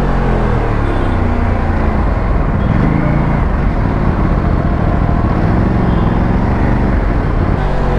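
Aprilia RS457's parallel-twin engine and exhaust running under way, the engine note rising and falling a few times as the throttle and revs change.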